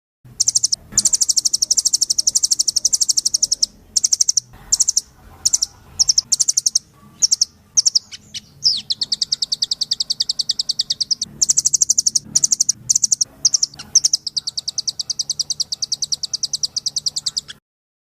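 A rambatan loreng (nuthatch) singing hard: fast trills of high, sharp repeated notes, some runs lasting a few seconds and others broken into short bursts, stopping suddenly near the end.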